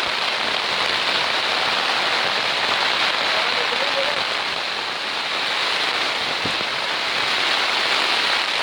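Heavy storm rain pouring down, a loud steady hiss with no let-up.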